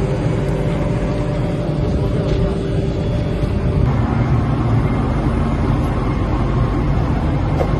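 Steady running noise of an electric locomotive: a loud rumble with a few steady hum tones, which change about four seconds in.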